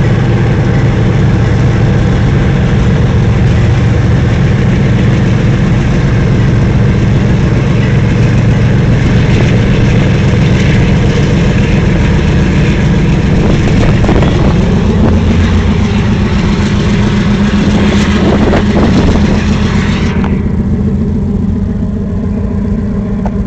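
GE diesel-electric freight locomotives running loud and close, a deep steady engine throb. The engine note strengthens about two-thirds of the way through, and a hiss above it cuts off suddenly soon after.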